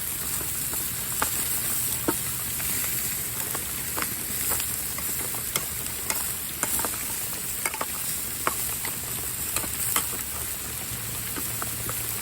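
Hamburger patty, potatoes and onion frying on a hot grill: a steady sizzle with scattered sharp pops and crackles.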